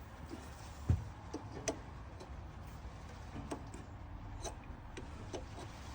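Light metal clicks and taps from hand work on parts and tools at the lathe: one knock about a second in, then scattered small ticks over a low steady hum.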